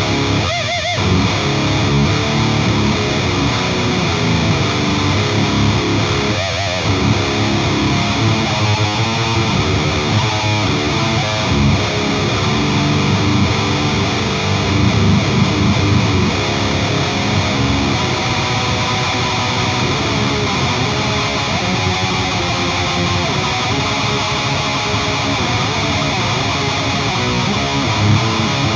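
Electric guitar through an Engl Savage 120 Mark II amplifier's lead channel with a Lone Wolf Audio Left Hand Wrath HM2-style distortion pedal engaged, played continuously as heavily distorted riffing. Held notes waver in pitch about a second in and again about six seconds in.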